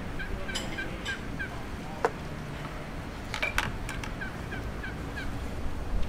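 A bird calling in two quick runs of short, repeated chirps, with a few sharp clicks and light knocks in between.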